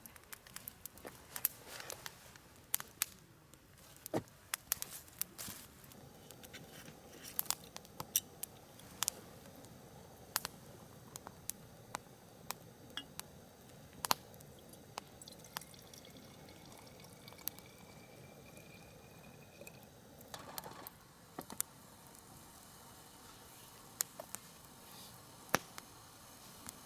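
Wood fire burning in a fire pit, crackling with irregular sharp pops, and a faint thin whistle that rises slightly in pitch about two-thirds of the way through.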